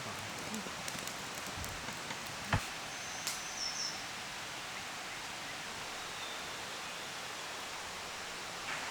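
Steady rushing of a forest stream, with a single sharp knock about two and a half seconds in and a faint high chirp just after.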